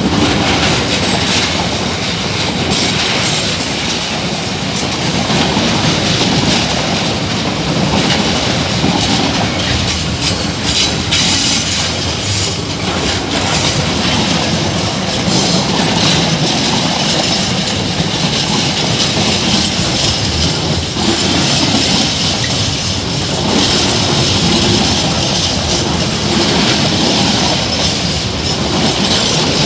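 Intermodal freight train's container wagons rolling past: a steady loud rumble of wheels on rail, with repeated clicks and clatter as the wheels run over rail joints.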